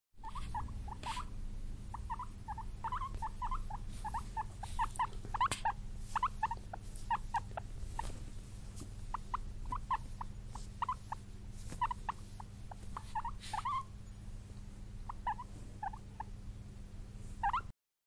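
Guinea pigs squeaking: many short, high squeaks coming in irregular runs, over a steady low hum.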